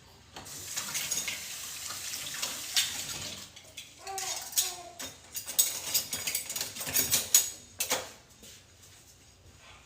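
Tap water running into a grill pan to soak it, then pots and pans clattering in the sink several times.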